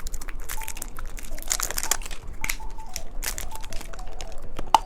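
Candy packaging crinkling as it is handled and opened, a run of quick, irregular crackles.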